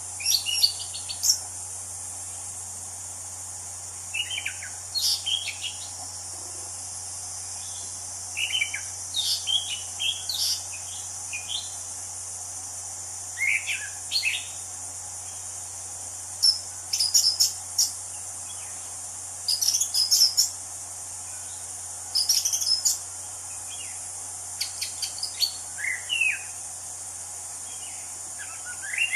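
Anis cendana thrush singing: short phrases of quick, varied whistled and chirping notes, each about a second long, repeated every few seconds, over a steady high hiss.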